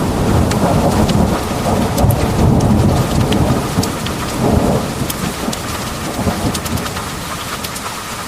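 Heavy rain pouring steadily, with sharp drops tapping close by. A deep rolling thunder rumble swells through the first few seconds, then dies away by about five seconds in.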